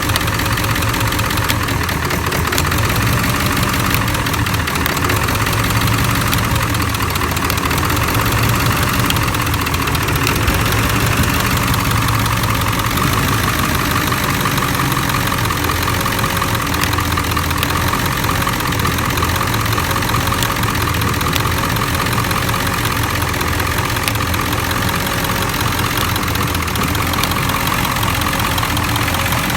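7.3L Powerstroke V8 turbo diesel idling steadily. The engine is intermittently dropping bank 1 injectors, which the owner puts down to an electrical fault: a short or poor connection at the under-valve-cover harness.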